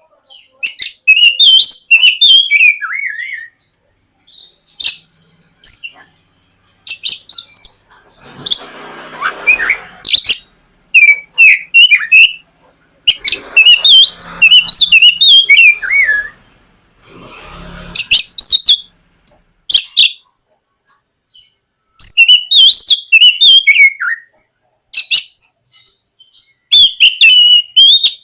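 Oriental magpie-robin (kacer) singing in loud, rapidly warbling whistled phrases of a second or two each, with short pauses between them. A fainter rough noise sits under the song twice, about a third and two thirds of the way through.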